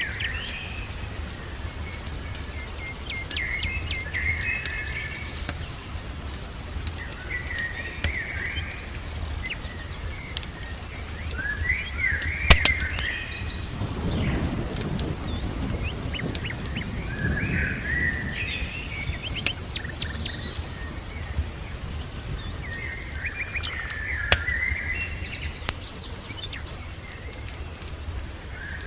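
A songbird singing short warbling phrases every few seconds, over scattered sharp crackles from a fireplace and a steady low rumble.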